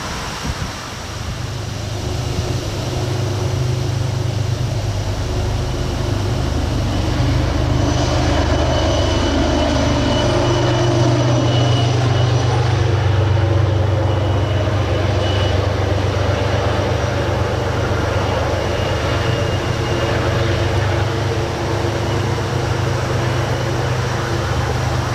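MBTA commuter rail train passing over a viaduct: the low drone of its diesel locomotive engine and the rumble of wheels on the rails, loudest about ten to fourteen seconds in as the locomotive goes by, with a thin high ringing that comes and goes.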